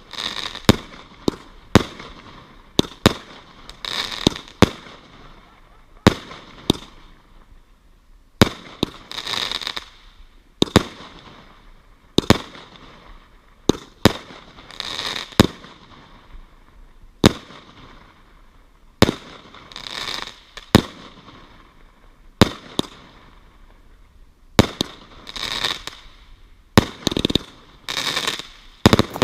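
Fireworks going off in a long run of sharp bangs, one every second or two, many trailing a brief crackle.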